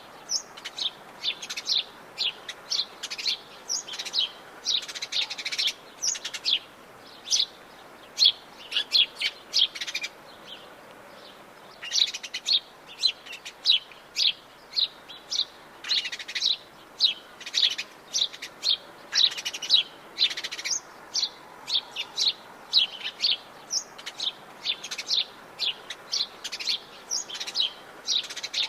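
Wild Atlantic Forest birds chirping and singing in quick series of short, high notes, several calls overlapping, with a brief lull about a third of the way in.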